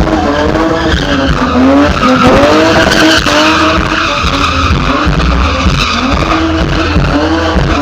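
A drifting car's engine revving up and down repeatedly over loud tyre squeal as the tyres slide.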